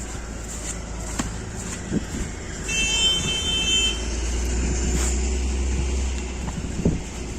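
Street traffic: a heavy motor vehicle's low engine rumble swells and passes from about four to six and a half seconds in. A brief high squeal comes about three seconds in.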